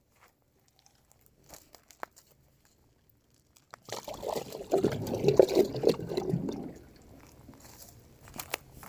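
Water pouring and gurgling in a plastic jug for about three seconds, starting about four seconds in, with light plastic handling clicks before and after.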